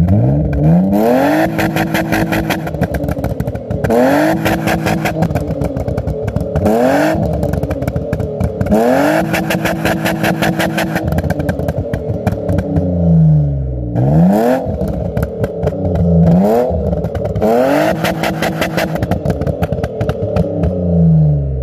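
Car engine revved hard again and again, each time slamming into a fast rev limiter that holds it at one pitch with a rapid stuttering cut. As the revs drop back, the exhaust pops and crackles on the overrun.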